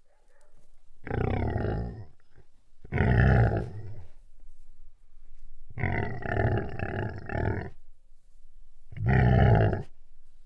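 A large animal giving four loud, low calls, each about a second long; the third is longer, about two seconds.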